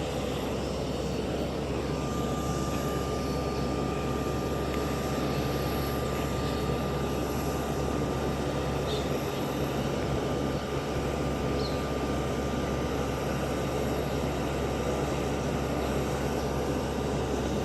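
Jet airliner engines running steadily, with a thin high whine that sets in about two seconds in.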